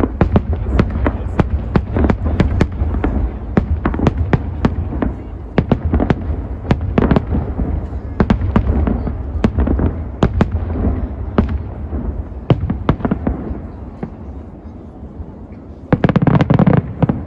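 Large fireworks display: shell bursts cracking and banging in rapid succession over a continuous low rumble. The bursts thin out after about thirteen seconds, then a loud, dense salvo comes near the end.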